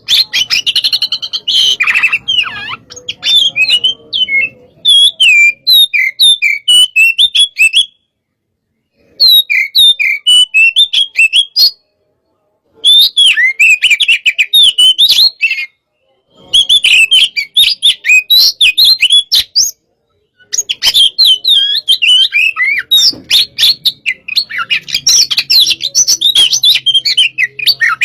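Oriental magpie-robin (kacer) singing loudly in long runs of rapid, varied whistled notes, with brief pauses every few seconds. It is the fast, aggressive song of a 'hot-type' kacer, used as pacingan to fire up other birds.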